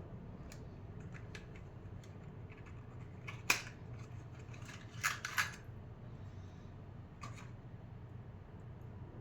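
Several sharp clicks and taps from small parts or packaging being handled over a low steady hum. The loudest click comes about three and a half seconds in, with a quick pair a couple of seconds later.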